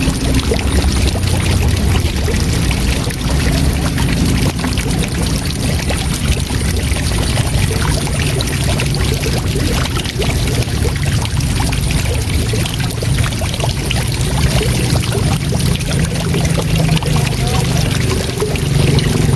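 Waterfall: a steady rush of falling water with a strong deep rumble underneath, unchanging throughout.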